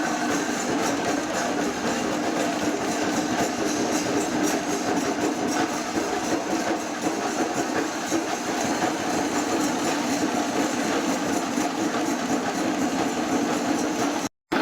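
Festival percussion ensemble of Kerala chenda drums with cymbals, playing a fast, dense, continuous rhythm. It breaks off for a moment near the end.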